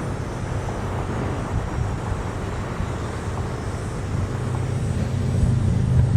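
Diesel locomotives of a freight train running with a steady low engine drone that grows louder near the end as the train approaches.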